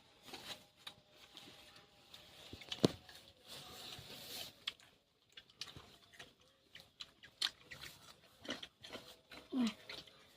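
A person biting and chewing crunchy raw food close to the microphone: many small wet chewing clicks, with one sharp crunch about three seconds in.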